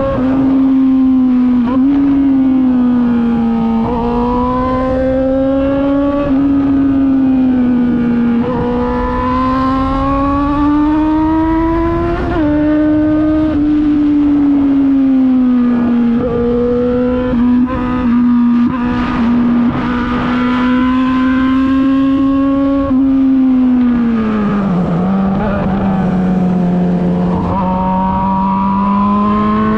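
Yamaha XJ6's 600 cc inline-four engine running through an Akrapovic full exhaust system. Its note holds fairly steady with slow rises and several short dips, then drops deeper about two-thirds of the way through and creeps back up.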